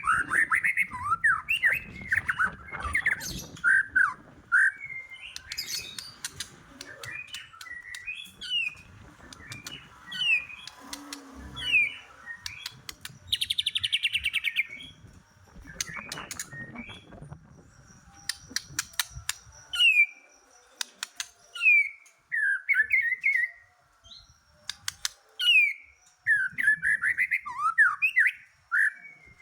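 White-rumped shama (murai batu) in full song: a long run of loud, varied whistled phrases sweeping up and down, mixed with sharp clicks and a short harsh buzzing rattle about halfway through.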